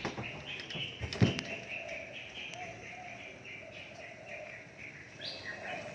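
Small birds chirping over and over, about three short chirps a second, with a single sharp knock about a second in.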